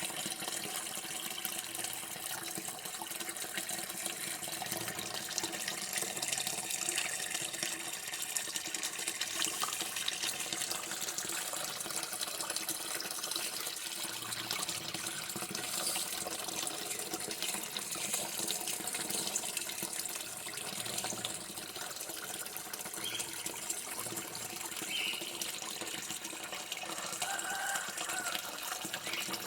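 Running water, a steady unbroken splashing stream.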